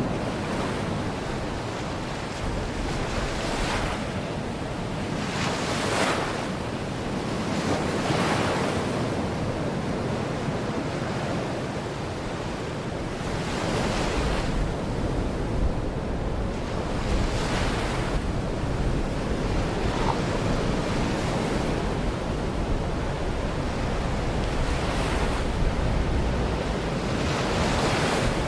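Surf of the Baltic Sea, small waves breaking and washing onto the shore every few seconds, with wind on the microphone.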